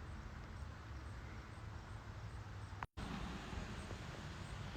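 Faint outdoor background noise with a steady low rumble and no distinct calls, broken by a split-second dropout to total silence about three seconds in.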